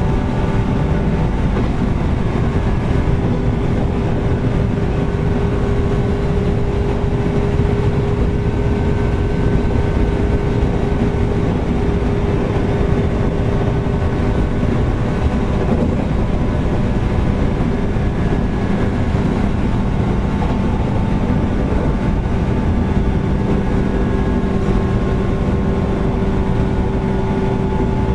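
Inside a JR 413-series electric multiple unit motor car, running steadily along the line: a constant rumble of wheels and motors under a loud, steady air-conditioning hum.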